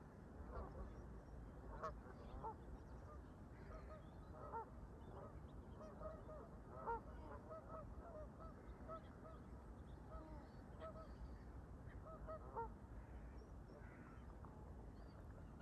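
A flock of Canada geese honking at a distance: many short, faint honks, repeated irregularly, over a steady low background rumble.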